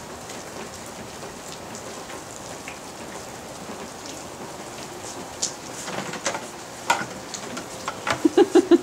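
Steady rain falling, an even hiss, with a few faint clicks in the second half and a quick run of short low pulses near the end.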